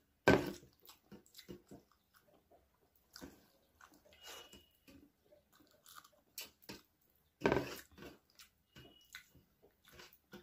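Close-miked chewing and wet mouth sounds of a person eating rice and chicken by hand, picked up by a clip-on mic on her shirt. Two louder mouth noises stand out, one just after the start and one about seven and a half seconds in.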